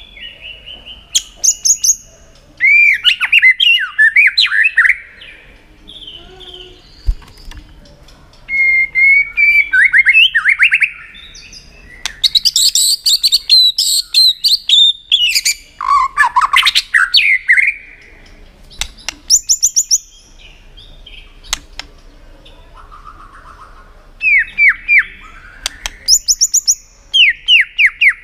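White-rumped shama singing in bursts of fast, varied whistled and chattering phrases, mixed with sharp clicking 'tak' calls, with short pauses between bursts.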